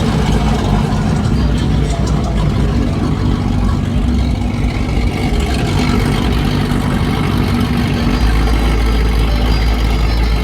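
Truck engine running at low speed, a steady low rumble that gets deeper and heavier about eight seconds in.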